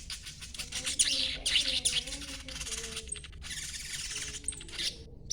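A young sogon songbird twittering in a rapid, continuous chatter of high chirps, with a few short thin whistled notes among them.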